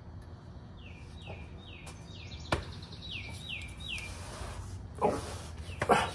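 A small bird chirping, a quick run of short falling chirps, two or three a second. A few sharp metallic clinks of hand tools, about two and a half and five to six seconds in, are the loudest sounds.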